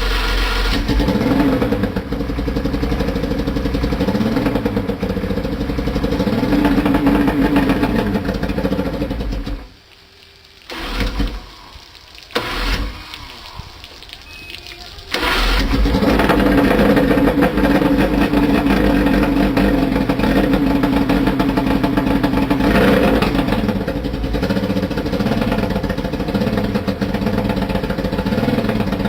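Johnson two-stroke outboard motor running with slowly rising and falling pitch. About ten seconds in it drops away, gives two short bursts, then about fifteen seconds in it catches and runs steadily again.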